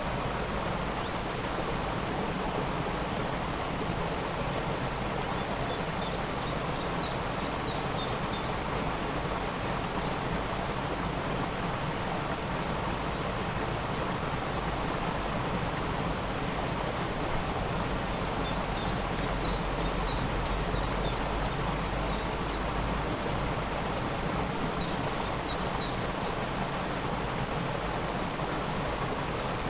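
Waterfall rushing in a steady roar of falling water. A small bird sings over it three times: quick runs of short, high chirps, once early, once in the second half and once near the end.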